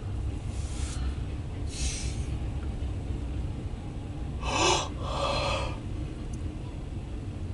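Steady low rumble of a passing double-stack intermodal freight train, heard from inside a car. About four and a half seconds in, a loud breath in and then out close to the microphone.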